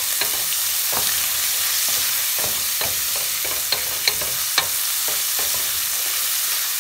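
Diced pancetta and minced garlic sizzling steadily in olive oil in a stainless steel sauté pan, stirred with a wooden spoon that scrapes and knocks against the pan now and then.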